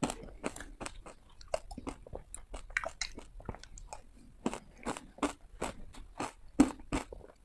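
Ice being bitten and crunched close to the microphone: an irregular run of sharp, crisp crunches, two or three a second.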